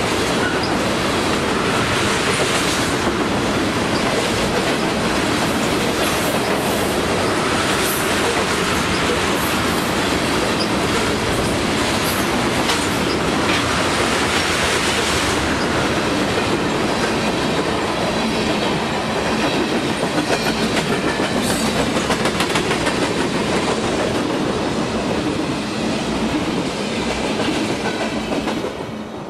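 Freight train of tank cars rolling past close by, its wheels clicking over the rail joints in a steady rumble. The sound drops away sharply near the end.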